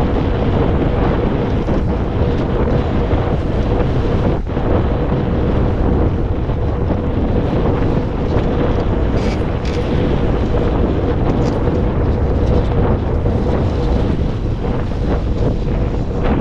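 Wind buffeting the microphone over the wash of water along a sailing yacht's hull under sail, with a thin steady hum underneath.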